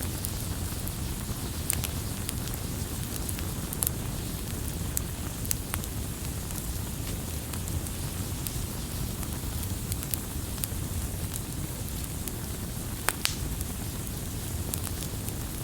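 Wood campfire burning, a steady low rumble and hiss with irregular sharp crackles and pops of burning wood, one louder pop about 13 seconds in.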